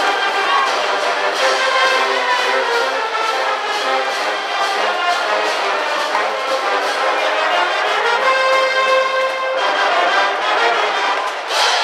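High school brass band playing a baseball cheering tune, trumpets and trombones over a steady beat, holding a long chord about eight seconds in.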